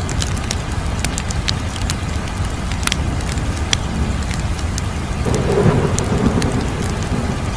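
Wood fire burning with a steady low rumble of flames and scattered sharp crackles and pops. The rumble swells briefly about five and a half seconds in.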